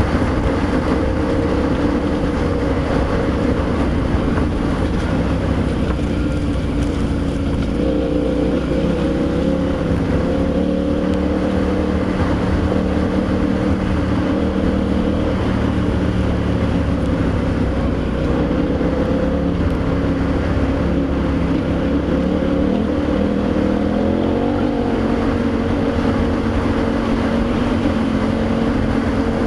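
KTM V-twin adventure motorcycle engine running steadily while riding, with low wind rumble; the engine note rises a little near the end.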